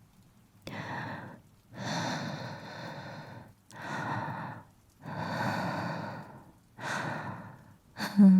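A woman's slow, deep breathing close to the microphone: five breaths, alternating short and longer, each one a soft rush of air.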